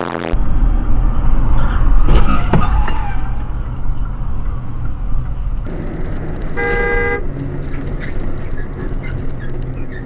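Steady low road and engine rumble of a moving car, with a cluster of sharp knocks about two seconds in. Past the middle a car horn sounds once for about half a second.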